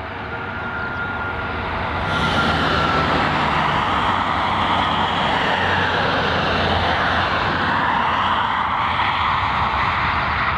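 Jet airliner engines at take-off power, loud. The noise swells sharply about two seconds in and then holds steady.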